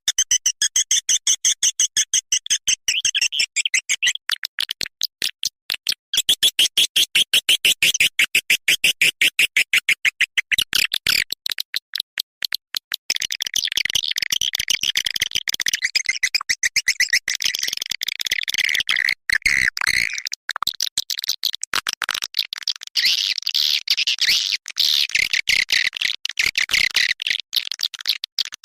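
Edible-nest swiftlet calling sound, a recorded lure track of the kind played in swiftlet houses to draw the birds in: high, rapid chirps repeated many times a second. There is a short break a few seconds in, then from about halfway the chirps run together into a denser, unbroken twittering.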